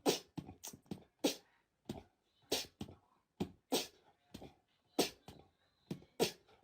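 A quick, irregular run of short, sharp clicks and taps, about three a second.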